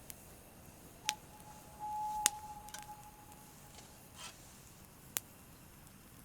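Campfire crackling, with three sharp pops and a thin, steady whistle from the burning wood lasting a couple of seconds.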